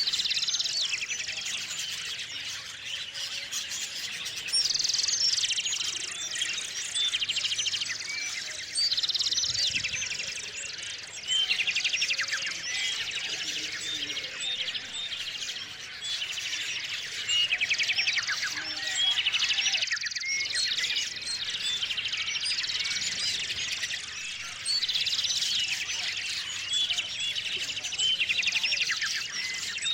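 Small songbirds chirping steadily, with a fast trilled song phrase that comes back every few seconds among many short chirps.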